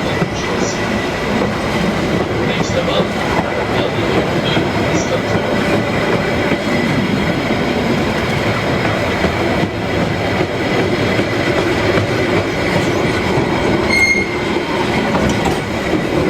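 A train running along the track, a steady rolling rumble with a thin high wheel squeal held throughout. A sharper, brief squeal comes about 14 seconds in.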